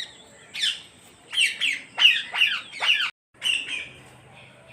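A parrot squawking: a run of about seven short, harsh calls, each sliding down in pitch, with a brief cut-out just after the middle.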